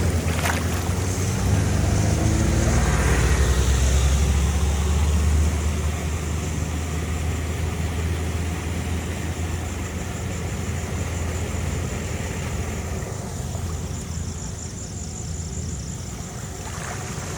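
A steady low engine rumble under a rushing hiss. The rumble eases off about five seconds in.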